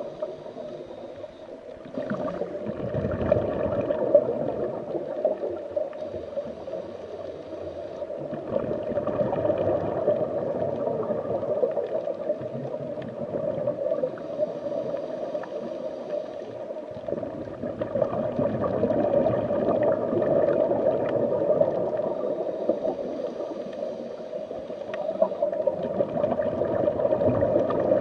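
Underwater water noise: a steady gurgling rush that swells and fades every few seconds.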